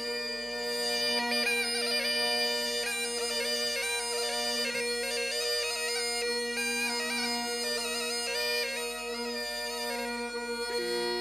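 Murli (been) reed pipe playing a Rajasthani folk melody in held, stepping notes over a steady drone.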